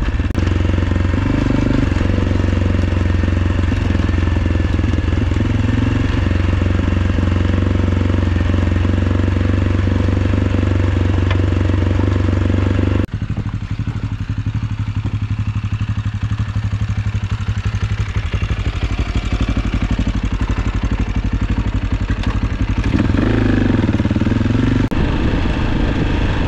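AJP PR7's single-cylinder engine running steadily under way. About halfway through the sound breaks off abruptly and the engine is heard at low revs with distinct, evenly spaced firing pulses, picking up briefly near the end.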